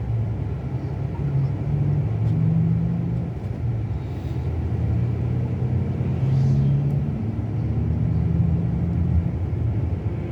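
Scania K360 coach's diesel engine running under way, a steady low drone with road rumble; the engine note rises and falls a little as the speed changes.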